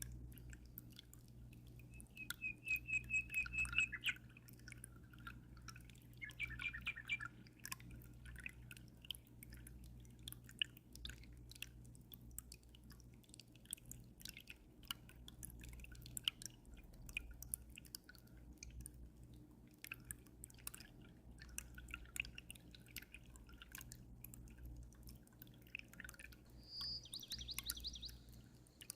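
Water dripping and splashing into an aquarium in quick irregular clicks, with small birds chirping in short rapid trills, three times, over a low steady hum.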